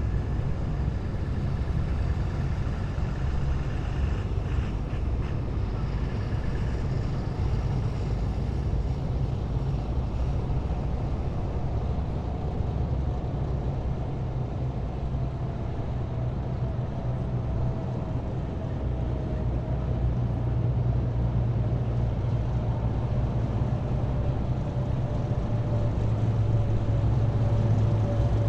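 A column of heavy military vehicles driving past, their engines running steadily with a deep rumble. From about ten seconds in, a faint whine slowly falls in pitch.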